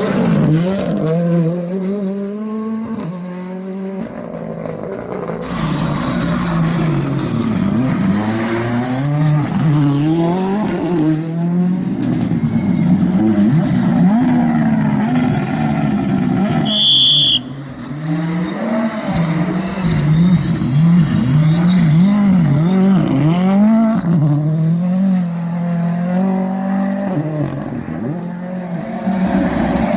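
Ford Fiesta R5 rally car's turbocharged four-cylinder engine revving hard, its pitch climbing and dropping again and again through gear changes over several separate passes. A short high beep sounds a little past halfway.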